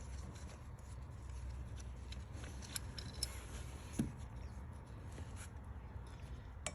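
Hands and tools working on engine parts: scattered faint small clicks and knocks, the sharpest about four seconds in, over a steady low hum.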